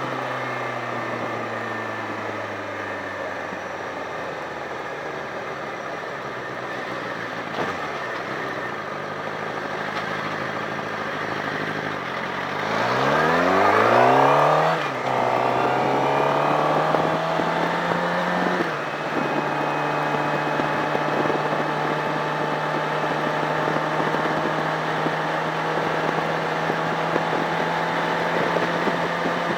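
Sportbike engine under way: its note first falls as the bike slows, then climbs steeply as it accelerates hard about halfway through. It shifts up twice, with quick drops in pitch, and then settles to a steady cruise.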